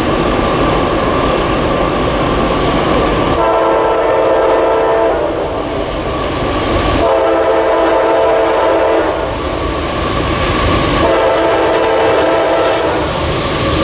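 A train passing with its locomotive horn sounding three long blasts of about two seconds each, the first about three and a half seconds in, each a chord of several tones; a fourth blast starts at the very end. The train's running rumble goes on under the horn and is loudest before the first blast.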